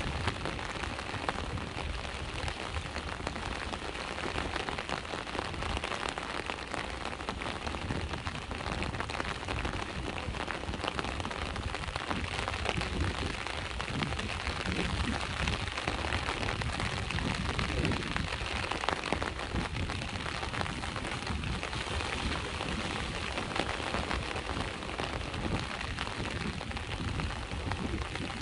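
Steady rain falling, with a dense patter of many small drops over a low rumble of sea waves.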